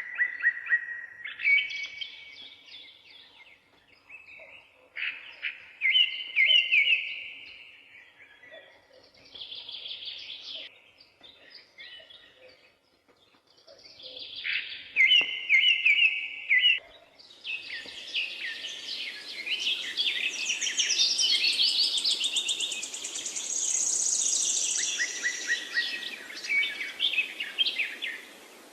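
Several songbirds singing in short, repeated phrases of chirps and trills, separated by brief pauses. About two-thirds of the way through, a steady hiss of background noise comes in under denser, overlapping song.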